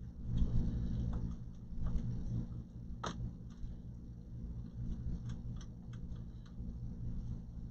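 Light clicks and taps of hands handling and setting a solid state drive in place inside an opened all-in-one computer, with one sharper click about three seconds in, over a steady low hum.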